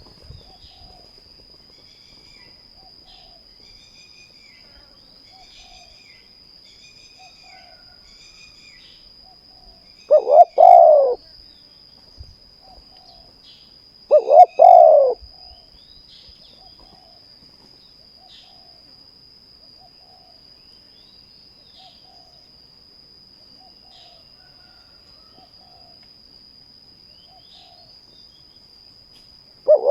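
Spotted doves cooing. Two loud, close coo phrases, each about a second long, come about ten and fourteen seconds in, with fainter coos from other doves repeating throughout. Small birds chirp during the first several seconds over a steady high tone.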